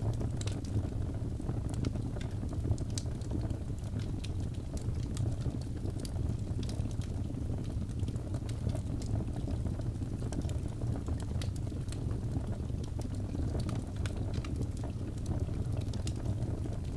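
Wood fire crackling: a steady low rumble under irregular sharp pops and snaps scattered throughout.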